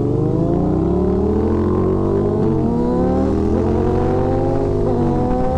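Motorcycle engine pulling hard under acceleration, its pitch climbing through the revs and dropping sharply at two upshifts, about two and a half seconds in and again near five seconds.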